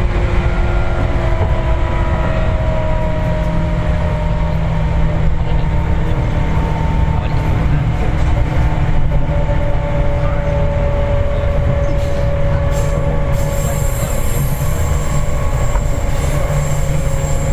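Seibu 4000 series resistor-controlled electric train running, heard from inside a passenger car: a steady rumble of wheels on track, with long tones that slowly fall in pitch.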